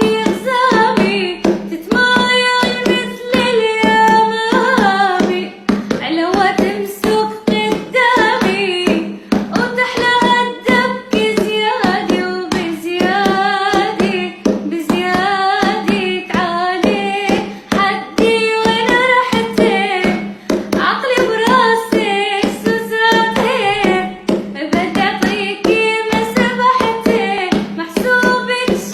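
A girl singing an Arabic song, her melody wavering and ornamented, over a steady low drone and a quick, even beat.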